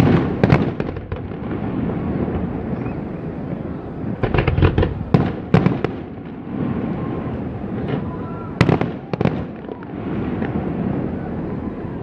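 Aerial fireworks exploding: sharp bangs in quick clusters near the start, again about four to six seconds in, and once more near nine seconds, over a continuous low rumble of further explosions.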